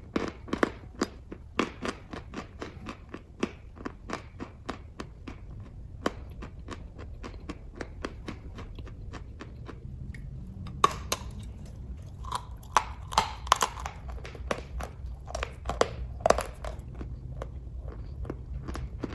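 Close-up chewing of kaju katli (cashew fudge): irregular wet mouth clicks and smacks, coming thicker and louder in the second half.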